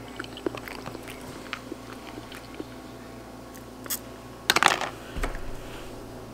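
Close-up eating: a person chewing a spoonful of food, with small wet mouth clicks and light clicks of a plastic spoon. A short louder noise comes about four and a half seconds in, over a steady low hum.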